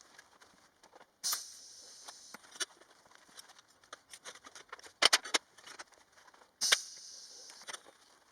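Workshop handling noise: small clicks, taps and knocks of metal parts and tools being moved, with a cluster of louder knocks about five seconds in. Two sudden short hissing bursts, about a second in and near the end, each dying away over about a second.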